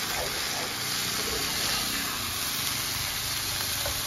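Chopped tomatoes and fried onions sizzling in hot oil in an iron karahi: a steady hiss.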